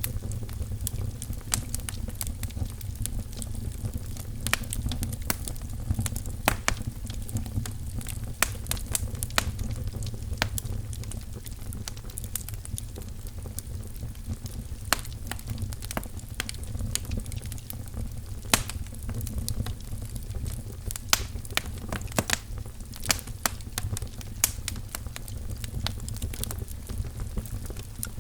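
Wood fire in a fireplace crackling, with frequent sharp pops and snaps over a steady low rumble of the burning logs.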